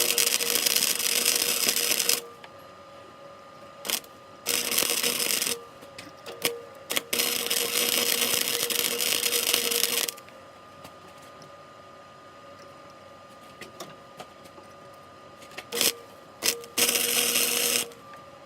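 Electric arc welding in short passes: four loud hissing bursts of about one to three seconds each. Between the bursts there is a faint steady hum and a few short clicks.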